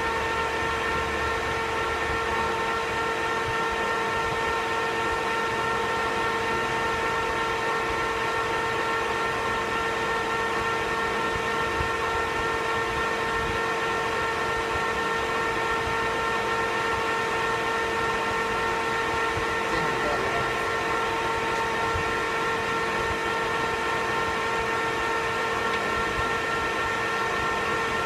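Metal lathe running steadily, its gearing giving a constant whine of several steady tones over a mechanical hiss.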